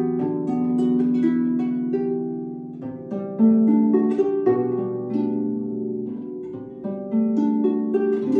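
Solo harp playing: plucked notes that ring on, with sustained low notes under repeated higher figures and a fresh group of plucks every second or so.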